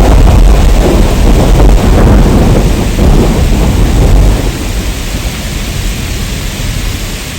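Heavy rain with a deep thunder rumble that dies away about four seconds in, leaving a steady rain hiss.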